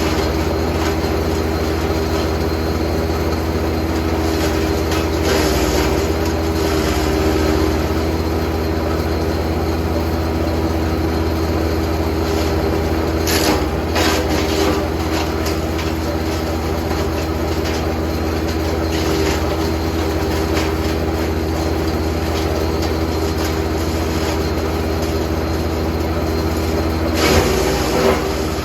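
Jansen GTS 1500e wood chipper running steadily, with short bursts of crackling and splintering as branches are fed in and chipped: around five to seven seconds in, again around thirteen to fifteen seconds, and near the end.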